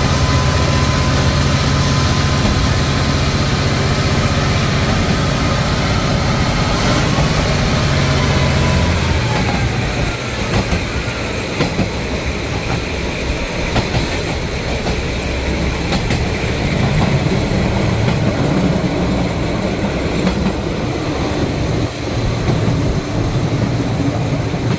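Diesel train running steadily: a low engine drone with a thin high whine that falls in pitch around seven to nine seconds in. After that the drone eases and the rumble of the moving train carries on.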